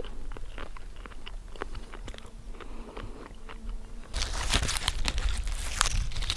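Close-up chewing and small mouth clicks of a man eating freshly picked wild blueberries. About four seconds in it gives way to louder rustling and handling noise with a low rumble.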